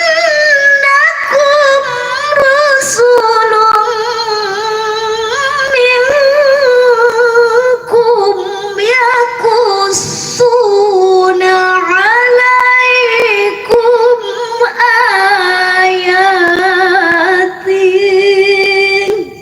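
Melodic Qur'an recitation (qira'ah) by a single high-pitched voice, long notes held with a wavering vibrato and ornamented turns, unaccompanied.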